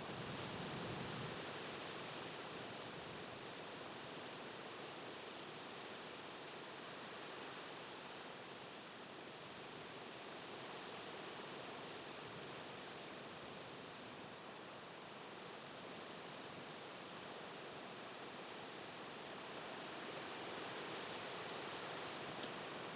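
Steady, soft outdoor hiss that swells and fades slowly over several seconds, with a faint click near the end.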